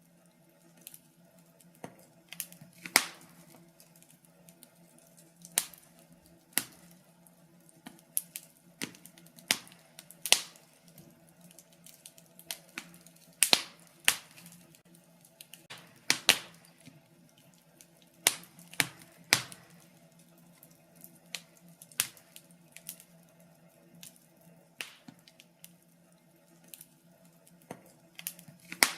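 Wood fire crackling in a fireplace, with irregular sharp pops of varying loudness, a few louder snaps standing out. A faint steady hum runs underneath.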